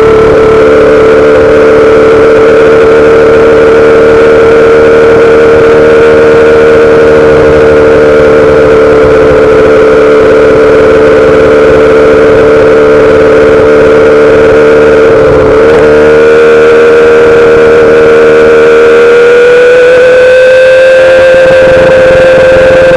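2008 Yamaha R6's inline-four engine through a full SC-Project exhaust, holding a steady high-pitched note. Its pitch edges up about two-thirds of the way through and again a few seconds before the end.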